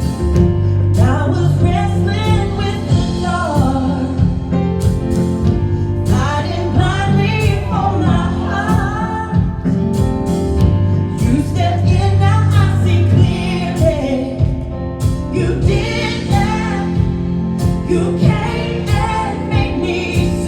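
Live gospel worship music: voices singing a melody over a band with sustained bass notes and a steady drum beat.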